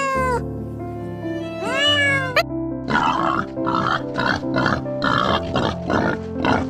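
A cat meowing, two rising-and-falling meows in the first couple of seconds, then from about three seconds a quick run of rough grunting calls from another animal, about two a second, over steady background music.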